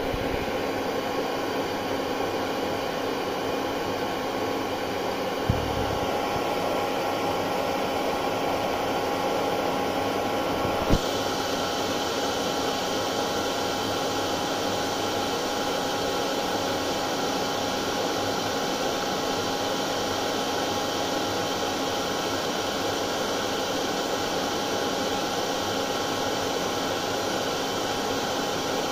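Hair dryer running continuously, a steady rushing of air with a motor's hum in it. Two short clicks come about five and eleven seconds in, and after the second the sound turns a little brighter.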